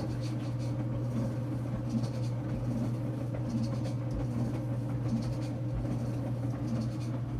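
Enxuta Luxo Soft washing machine running with towels inside: a steady low motor hum with irregular rustling over it.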